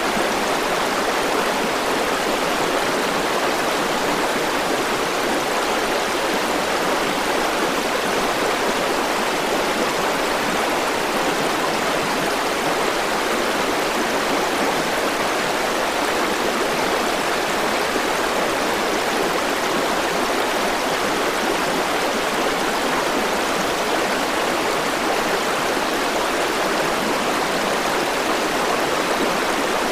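River water flowing over rocks: a steady, even rush and gurgle that doesn't change.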